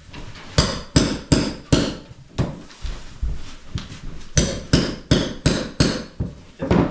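Hammer blows, struck repeatedly at about three a second in runs of several strikes with short pauses between.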